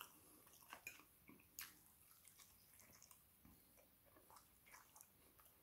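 Near silence with faint, scattered wet clicks of chewing and lip smacks from eating sauce-covered chicken wings.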